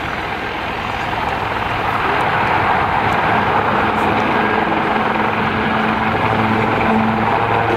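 AgustaWestland Wildcat HMA2 helicopters flying overhead: loud, steady rotor and turbine noise with a low hum, growing louder over the first few seconds and then holding.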